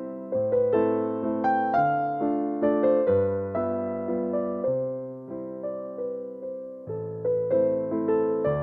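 Background music: a soft electric piano playing a slow melody over changing bass notes, each note struck and fading.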